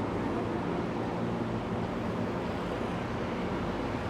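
City street traffic: a steady low rumble of vehicle engines and tyres.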